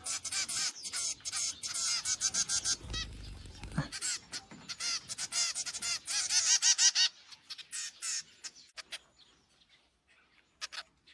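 Hand-raised young birds calling: rapid, high-pitched chirps repeated many times a second, dense for about the first seven seconds, then thinning to a few scattered calls. The calls are the noisy begging of hand-fed chicks.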